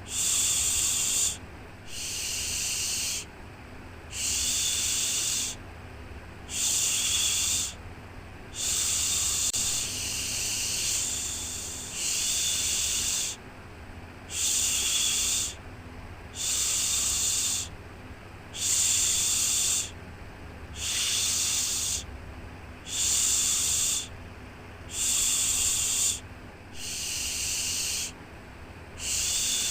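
Shushing 'shhh' sounds repeating about once every two seconds, each a hiss lasting a little over a second, with one longer, drawn-out shush in the middle, over a faint steady low rumble.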